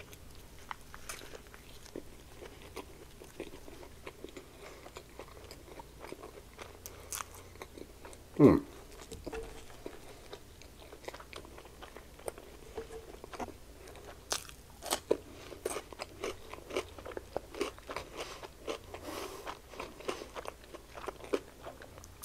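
Close-miked biting and chewing of a breaded fried chicken sandwich: many small crunches and wet mouth clicks throughout, busier in the second half. One louder sound falling in pitch comes about eight and a half seconds in.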